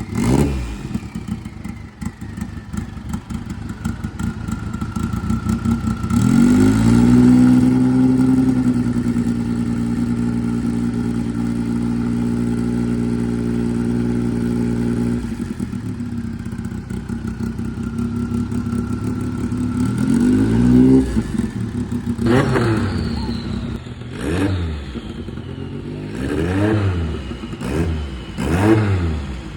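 A vehicle engine being revved: it climbs about six seconds in, is held at high revs for some eight seconds, drops back, and then gives a string of short throttle blips near the end.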